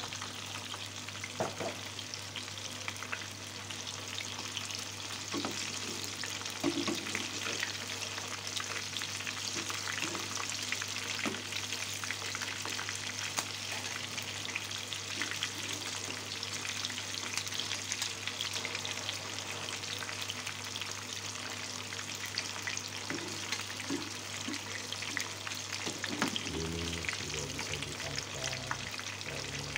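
Bacem-braised tofu pieces sizzling and crackling steadily in hot oil in a small wok, with a metal slotted spatula now and then scraping and knocking against the pan as pieces are turned and lifted.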